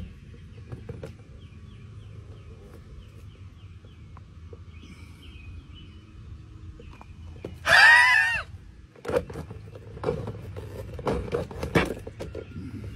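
A single loud bird call, under a second long, about eight seconds in, with a squawking, fowl-like rise and fall in pitch. Several sharp knocks follow over the next few seconds, over a low steady hum, with a faint run of quick chirps near the start.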